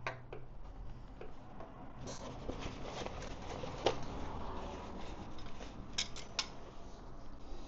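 Scattered light clicks, taps and rustling of small parts and tools being handled, with a sharper click about four seconds in and two more about six seconds in.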